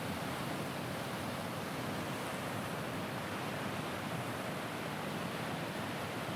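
Water rushing steadily over a weir, a constant even roar of falling water.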